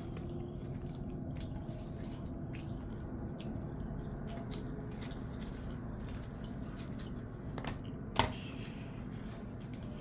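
A person chewing food close to the microphone: wet, squishy mouth sounds with many small clicks and one sharper click about eight seconds in, over a steady low background hum.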